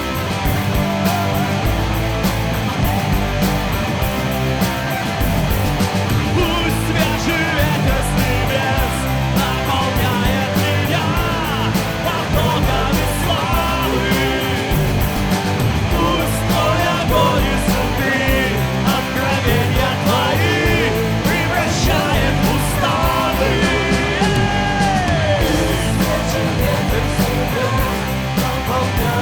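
Loud rock-style worship music from a band with drums, bass and guitar, with singing in places.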